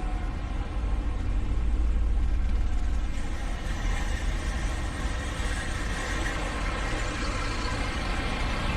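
Semi-truck diesel engine running steadily with a deep, even drone, swelling a little about two seconds in.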